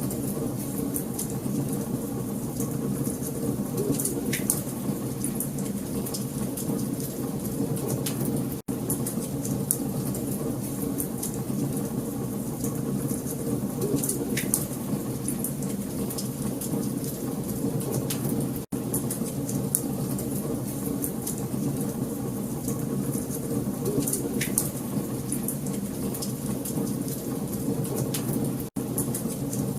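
Wood fire crackling and popping steadily, with dense small snaps over a low rushing bed. The sound cuts out for a split second about every ten seconds.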